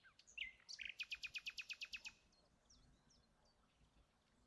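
Faint bird song: a couple of high chirps, then a fast trill of about a dozen rapid notes lasting about a second, followed by a few faint scattered chirps.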